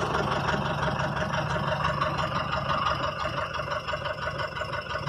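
Mahindra jeep engine running steadily.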